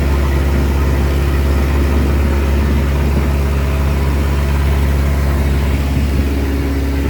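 Boat engine running steadily, a loud low hum that holds one pitch, with the boat under way.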